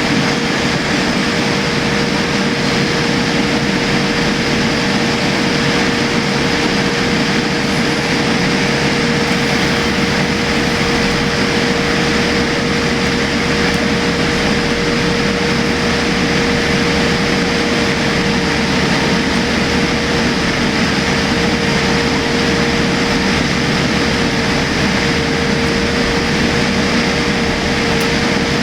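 Steady cabin noise inside a Boeing 787-8 airliner: its Rolls-Royce Trent 1000 engines and airflow making an even rush with a steady mid-pitched hum running through it.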